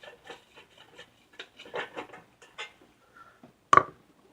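Ratchet wrench clicking in short irregular strokes as a half-inch transmission pan bolt is backed out, with one louder metallic clink near the end.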